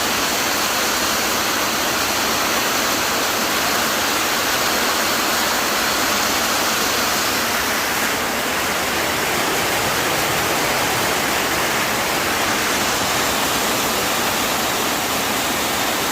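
Heavy rain falling steadily, a dense even hiss of rain with no let-up.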